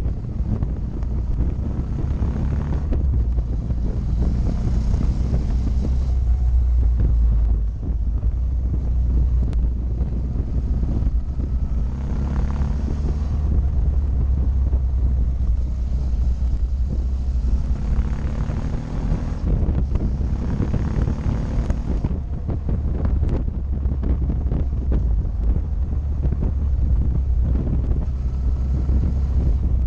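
Motorcycle engine running on the move with wind buffeting the microphone; the engine note rises and falls a few times as the rider works the throttle through curves.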